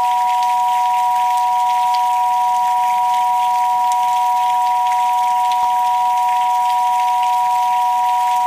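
Two steady pure sine tones, one a little higher than the other, held together over the hiss and light patter of rain: a layered meditation frequency track.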